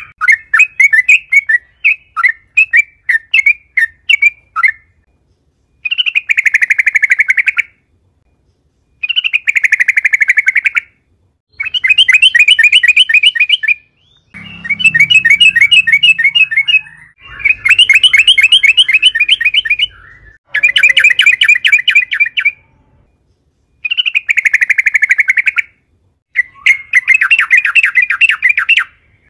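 Yellow-vented bulbul (trucukan) singing loudly. A few seconds of separate chirps about three a second lead into a run of fast, chattering trilled phrases, each a second and a half to two and a half seconds long, with short pauses between.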